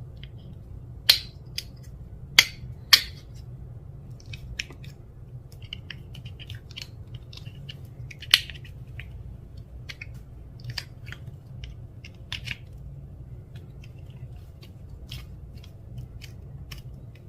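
Clear slime being worked by hand, giving irregular sticky clicks and pops, with a few sharp, louder pops in the first half.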